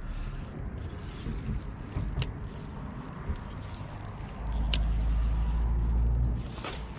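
Close rattling and rustling handling noise, with scattered small clicks and a low rumble from about four and a half to six and a half seconds in.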